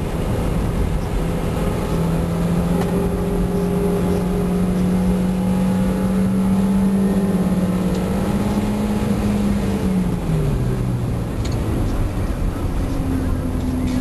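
1990 Mazda MX-5's 1.6-litre four-cylinder engine pulling under steady throttle, its note climbing slowly, then falling in two steps about ten seconds in as it comes off the throttle. Heavy wind and road noise throughout.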